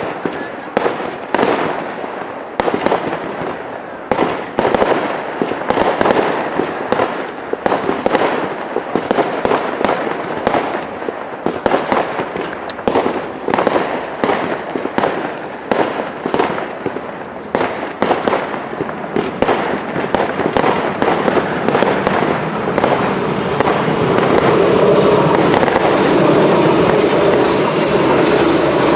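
Professional fireworks display: a rapid string of cracking reports from small shells and comets, about two a second. For the last few seconds this gives way to a steady hissing rush as ground fountains spray sparks.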